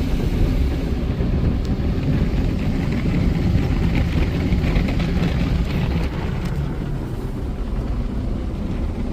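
Broadway all-cloth car wash machine working over the car, heard from inside the cabin: cloth strips and brushes rubbing on the body among spraying water, a steady churning noise.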